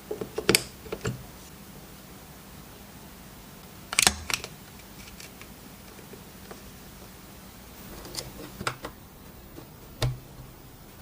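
Sharp clicks and knocks of hard parts being handled during tool work: a quick cluster at the start, a couple about four seconds in, and a few more near the end.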